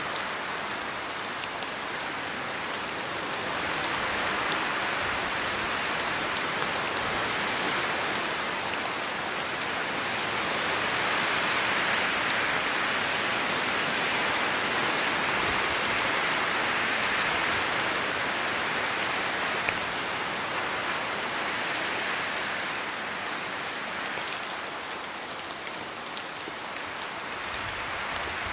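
Steady rain falling, with wind through the trees: the rush swells slowly louder through the middle and eases off again near the end.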